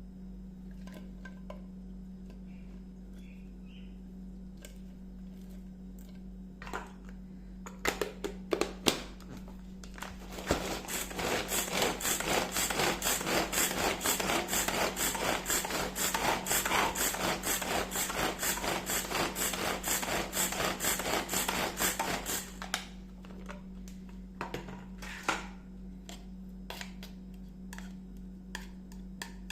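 Rapid, even knife strokes chopping on a cutting board for about twelve seconds, starting about ten seconds in, with scattered kitchen taps and clicks before and after. A steady low electrical hum runs underneath.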